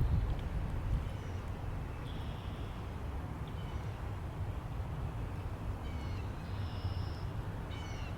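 Steady low wind rumble, with a few faint bird calls over it; the clearest are a quick run of falling chirps a little past the middle and another near the end.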